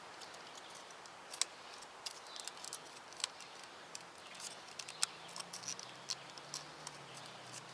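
Light plastic clicks and taps of electrical connectors being handled and pressed back onto the fuel injectors: scattered small clicks, a few sharper ones.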